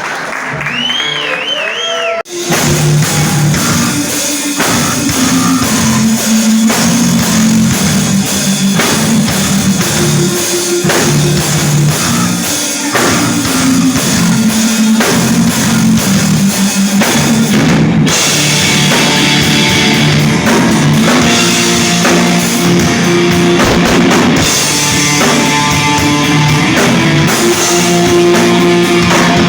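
Live rock band playing loud after a short quieter opening: about two seconds in, the drum kit and electric guitars come in together at full volume and keep going.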